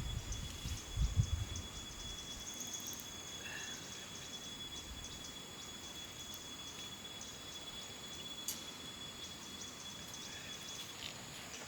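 Insects trilling steadily in a forest, a continuous high-pitched whine. A few low knocks come in the first second and a half, and a single click about eight and a half seconds in.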